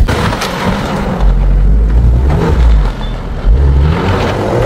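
Range Rover Sport SUV's engine running with a heavy low rumble, revving up in the last second as its pitch rises.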